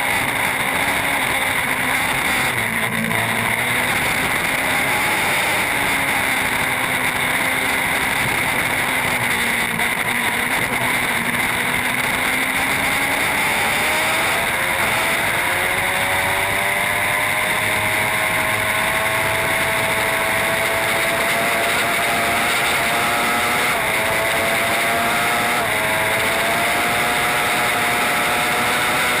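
Superbike engine running hard at race speed under a steady, loud rushing noise, its pitch climbing slowly through the second half.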